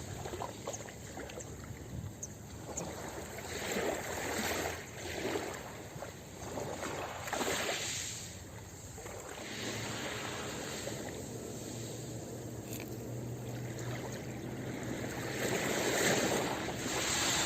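Ocean waves washing onto a beach, the surf swelling and easing every few seconds, with the loudest surge near the end.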